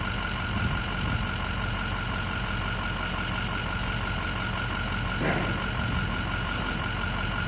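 Ford 6.0L Power Stroke V8 diesel idling steadily, with a steady high tone above the engine note and a brief extra sound about five seconds in.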